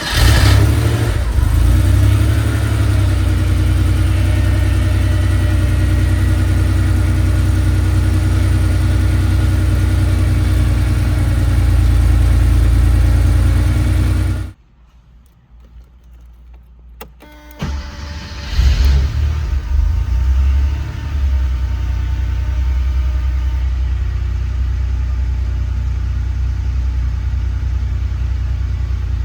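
1989 Porsche 911 Speedster's air-cooled 3.2-litre flat-six just after a cold start, running at a steady fast idle. About halfway through the sound drops away for a few seconds. Then the engine is running again, with two short revs before it settles back to an even idle.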